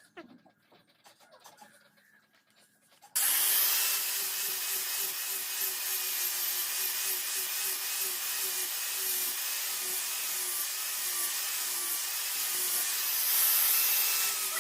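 A power grinder abrading metal, starting abruptly about three seconds in and running steadily as a loud hiss with a wavering hum.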